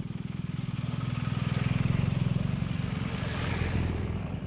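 BMW R1200GS boxer-twin motorcycle engine running at low revs, with a rapid, even pulse that grows louder over the first two seconds and then holds steady.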